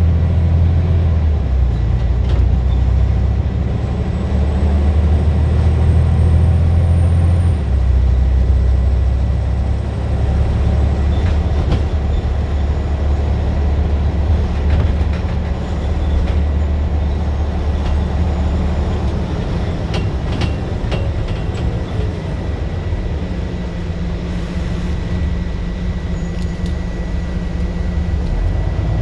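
Scania single-deck or double-deck bus diesel engine working hard under load, heard on board, a loud low drone whose note changes abruptly about eight seconds in and shifts again later. A faint steady high whine runs under it.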